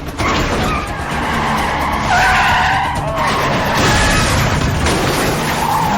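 Car tyres squealing and engines running hard in a film car-chase soundtrack, with long wavering tyre squeals about two seconds in and again near the end.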